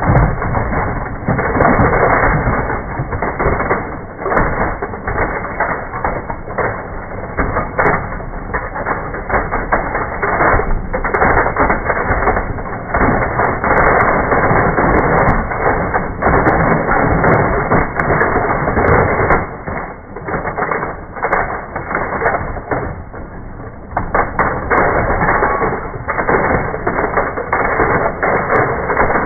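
A bin of die-cast metal toy cars pouring out and clattering onto a heap: a dense, continuous rattle of many small impacts that swells and thins several times. The audio is slowed down with the slow-motion footage, so the clatter sounds low and drawn out.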